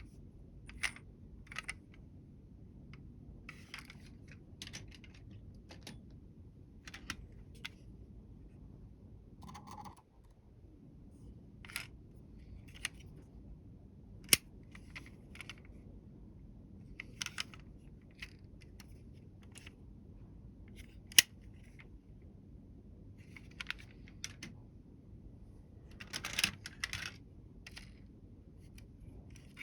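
Small die-cast model vehicles being handled: scattered light clicks, taps and rustles, with two sharp clicks about halfway through and again about two thirds of the way through, over a low steady background hum.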